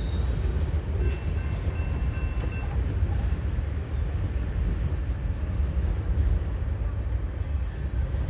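Freight train of covered hopper cars and a tank car rolling past and away: a steady low rumble of wheels on rail. A faint high whine sounds briefly about a second in.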